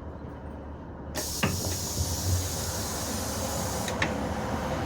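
Diesel train standing with a low steady engine hum; about a second in, a loud hiss of compressed air starts suddenly and runs on, with a couple of short knocks. The air is released from the train's pneumatic doors or brakes as it stands at the terminus.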